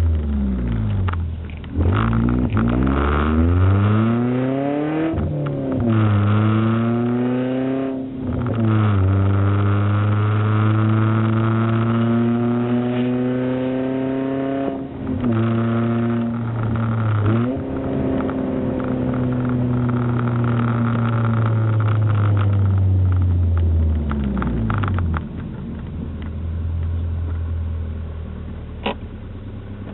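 Toyota Altezza with a straight-pipe exhaust, heard from inside the cabin: the exhaust and intake sound climbs in pitch as the car accelerates and drops abruptly at each gear change, several times over, with steadier cruising stretches. Near the end it settles to a lower, steadier note.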